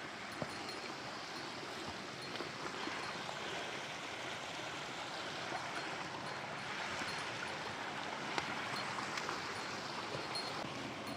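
Mountain stream flowing over rocks, a steady rushing with a few faint clicks.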